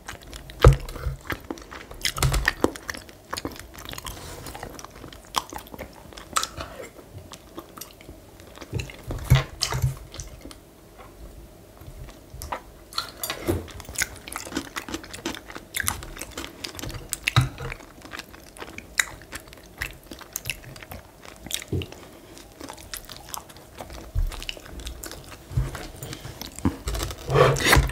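Close-miked chewing and biting of food, with many short, sharp clicks from the mouth and bites scattered throughout.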